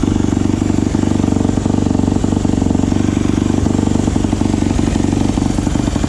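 2017 Yamaha YZ250F's 250cc single-cylinder four-stroke engine idling steadily just after a cold kick-start, having sat for three months. It runs loud and even with no revving, through a silencer that needs repacking.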